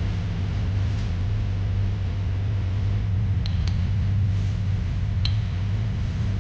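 Steady low drone of a car driving along a highway, engine and road noise blending into an even hum. A few sharp light clicks come through in the second half.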